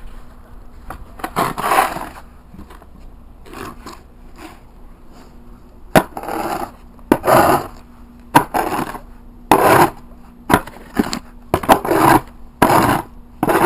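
Short scraping, crunching strokes in snow: a few early on, then about one a second from about six seconds in, some starting with a sharp click.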